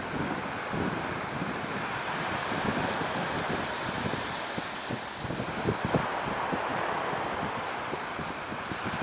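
Wind buffeting the microphone in steady gusts over the wash of surf breaking on the beach.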